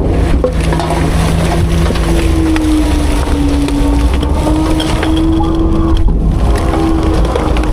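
Autocar-Heil Freedom front-load garbage truck compacting refuse: the engine and hydraulic pump run under load with a steady, slightly wavering drone, while the load crackles and snaps as it is crushed.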